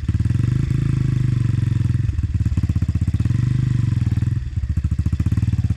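Two-stroke enduro motorcycle engine idling steadily.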